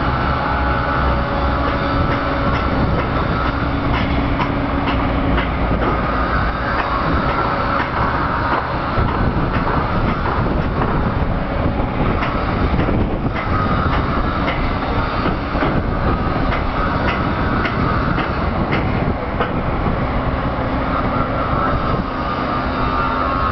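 Hitachi Zaxis ZX130 tracked excavator at work: the diesel runs steadily under load, with high squealing tones that come and go and frequent metallic clanks.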